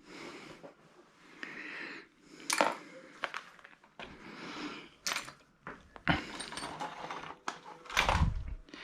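Someone rummaging through small metal hardware and sockets: scattered sharp clinks and short clatters of metal on metal, with a dull thump near the end.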